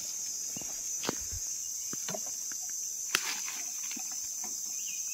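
Steady high-pitched drone of insects, with two sharp knocks, about a second in and about three seconds in, and a few fainter clicks.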